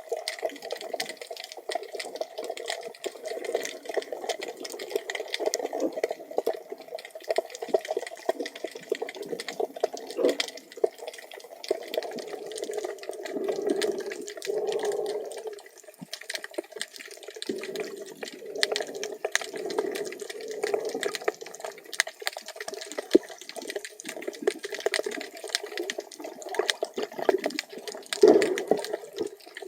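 Water heard through a submerged camera housing: a muffled, continuous rushing and bubbling of moving water, with scattered small clicks and knocks.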